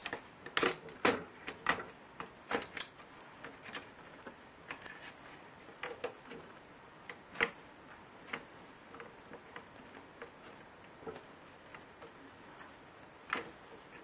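Irregular small clicks and taps of a laptop being worked on by hand: plastic and metal parts and tools being handled during disassembly of a Lenovo Y570. A quick run of clicks in the first two seconds, then scattered ones, with sharper single clicks about seven seconds in and near the end.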